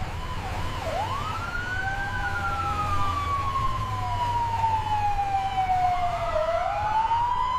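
Emergency vehicle siren wailing in one slow cycle: it rises sharply about a second in, falls slowly for several seconds, then starts rising again near the end, over a steady low rumble.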